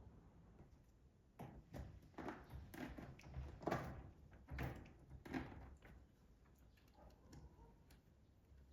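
A quick series of faint knocks and clatters, about eight in four seconds, like things being handled or a door or drawer being worked indoors.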